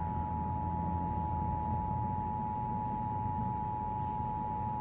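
Emergency Alert System attention signal: a steady two-tone alert of 853 and 960 Hz, held without a break, announcing a severe thunderstorm warning.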